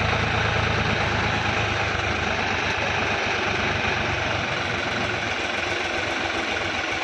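Powertrac 60 tractor's diesel engine running steadily. Its deep rumble thins out after the first second or two.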